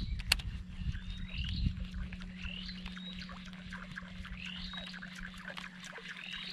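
A bird calling over and over, a short rising-and-falling note about once a second, over a steady low hum and scattered light clicks.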